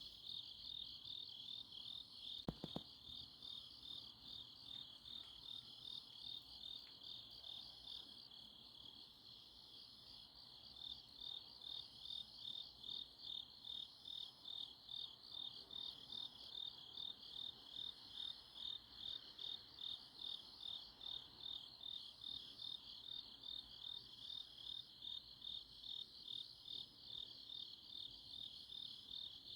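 Autumn-night chorus of grass insects (crickets) chirping in a steady pulsing high trill, about two pulses a second, that slackens briefly partway through. A short click sounds about two and a half seconds in.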